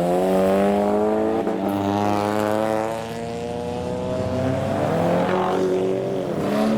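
Modified car's engine accelerating past, its note climbing steadily, dropping at a gear change about three seconds in, then climbing again.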